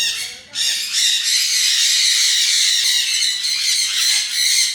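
Many parrots squawking and chattering at once in a dense, high-pitched din. It dips briefly about half a second in, then carries on without a break.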